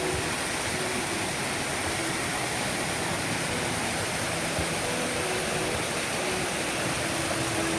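Waterfall pouring into its pool, a steady rushing of falling water.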